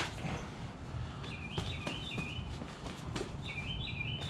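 A small bird chirping: two quick runs of high stepped notes, one about a second in and another near the end, over a steady low rumble, with a few light clicks.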